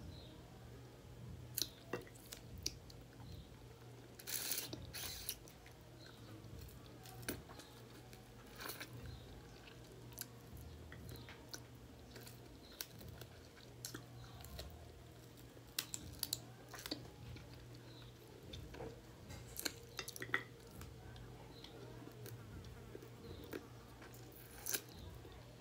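Chewing and biting while eating chicken by hand, heard as irregular soft mouth clicks and smacks, over a low steady hum.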